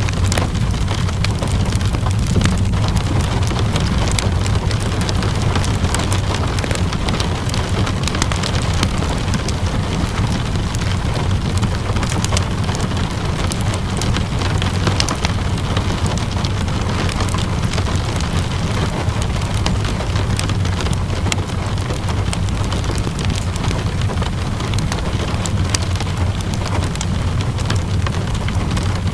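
Steady rainfall mixed with a crackling wood fire: a constant low rumble and even hiss, dotted with many sharp little crackles and pops.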